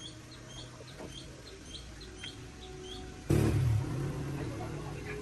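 A small bird chirping repeatedly, short high chirps about three a second, over a low steady hum. About three seconds in, a sudden loud noise with a heavy low rumble cuts in and slowly fades.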